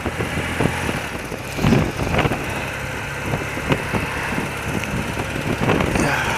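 A thirty-year-old BMW motorcycle's engine running at a steady speed under a wash of traffic noise, with a brief louder swell about a second and a half in.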